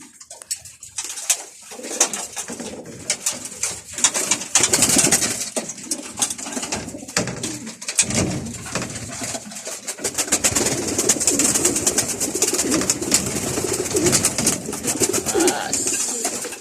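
Domestic pigeons cooing continuously in a small enclosed loft, with many short clicks and rustles among them, the cooing fuller in the second half.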